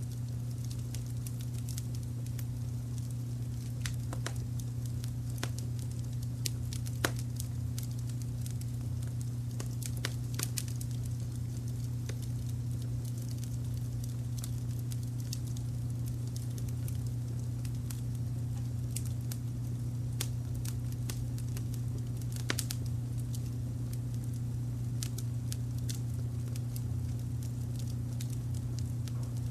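Wood fire crackling with irregular sharp pops and snaps, over a steady low rumble of brown noise.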